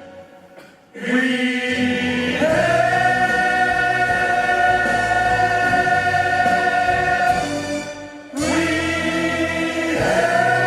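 A choir singing long held chords with musical accompaniment, breaking off briefly about a second in and again near the eight-second mark before the next chord comes in.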